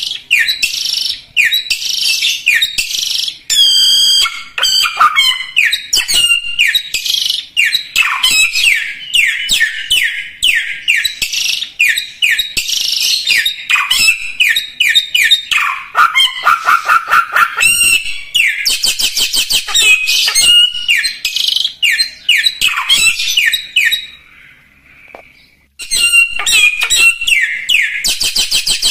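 A samyong cage bird singing vigorously and without let-up: rapid, varied runs of sweeping whistled notes and trills. It pauses for about two seconds near the end, then resumes.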